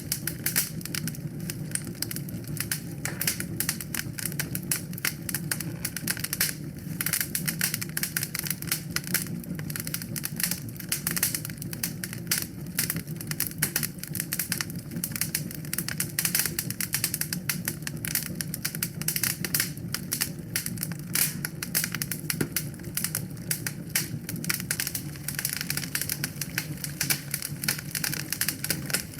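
Wood fire in a fireplace crackling steadily, a dense run of small sharp pops and snaps over a low, even rumble of the flames.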